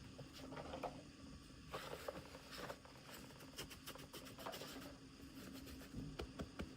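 Faint rustling and scattered light clicks of hands handling small plastic packaging and toy pieces during an unboxing, with a cluster of sharper clicks near the end.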